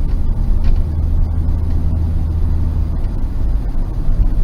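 Car driving, a steady low road-and-engine rumble as picked up inside the cabin by a dash camera.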